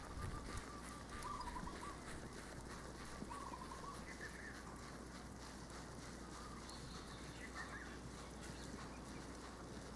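Birds calling in short wavering phrases, several times over a steady outdoor hiss, with a few faint hoof thuds of a cantering horse at the start.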